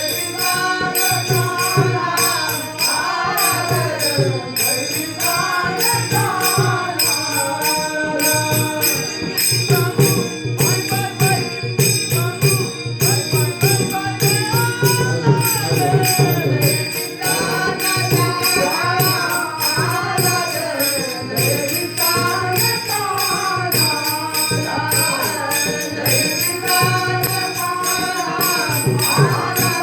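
Marathi Varkari bhajan: a male lead singer's voice glides through a devotional melody over a steady, even rhythm of small hand cymbals, with low drum beats and steady held notes beneath.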